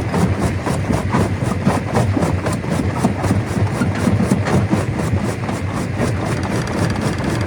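Stone crusher running under load: a steady heavy machine drone with a dense, continuous clatter of rock being broken and rattling through it.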